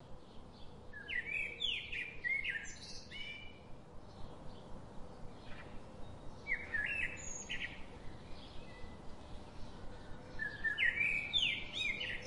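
A songbird calling in three short bouts of quick chirping notes: about a second in, again near the middle, and near the end. A faint steady hum runs underneath.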